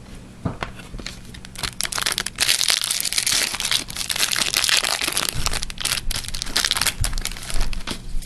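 Foil wrapper of a hockey card pack being torn open and crinkled in the hands, a dense crackling rustle with many small snaps that builds about a second and a half in and dies down near the end.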